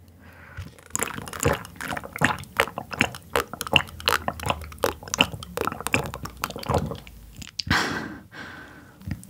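Close-miked chewing of boiled sea anemone: wet, squishy chewing and mouth smacks in a rapid, uneven series, starting about a second in.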